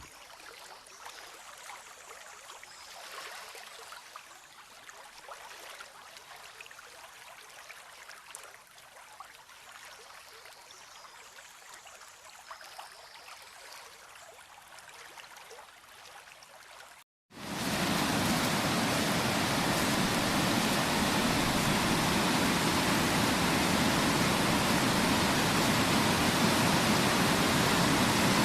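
Faint, steady rush of a stream or small cascade; after a cut about 17 seconds in, the much louder, even roar of a large waterfall's falling water.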